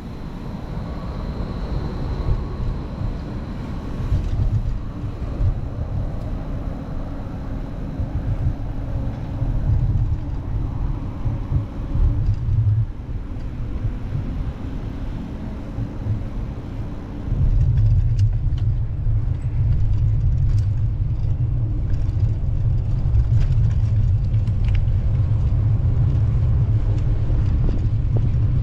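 Steady low rumble of wind and road noise from riding a bicycle through city streets, growing louder about seventeen seconds in.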